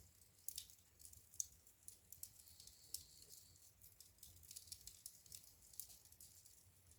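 Wood fire crackling in a fireplace: soft, irregular pops and snaps, a few of them louder, over a faint low rumble.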